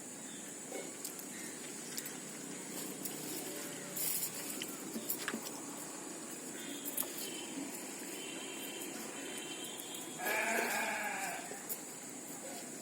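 Quiet eating sounds, with small clicks and smacks scattered throughout. About ten seconds in, a wavering pitched call lasting a second or so rises above them and is the loudest sound.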